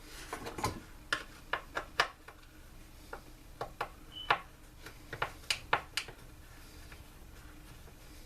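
Irregular sharp clicks and light knocks of hand tools and blower parts being handled as the back housing is taken apart, about a dozen over some six seconds, then they stop.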